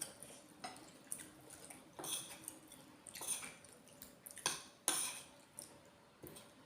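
Cutlery clinking and scraping against a plate or bowl in a run of short, sharp strokes, the loudest two about four and a half and five seconds in.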